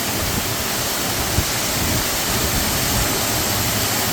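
Waterfall pouring hard in strong flow, a loud steady rush of water, with some wind buffeting the microphone.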